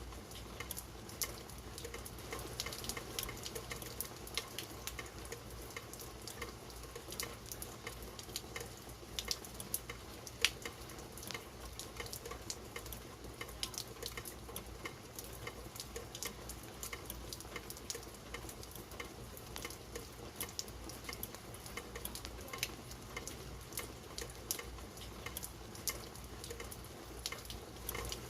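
Steady rain with many irregular drops pattering and dripping, some close and sharp, over an even hiss.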